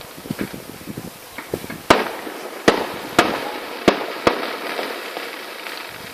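Fireworks going off: five loud, sharp bangs within about two and a half seconds, each with a short echo, among many fainter pops and crackle.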